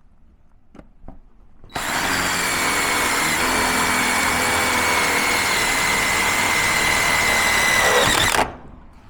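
Power drill running steadily for about six and a half seconds, starting about two seconds in; its whine sinks slightly in pitch before it stops abruptly.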